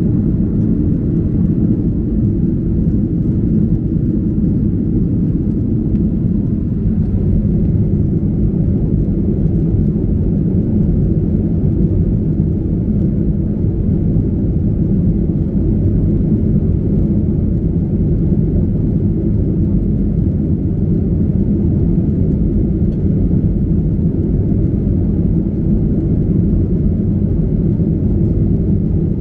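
Steady low rumble of a Boeing 737-800's engines and airflow heard from inside the passenger cabin in flight, unchanging throughout.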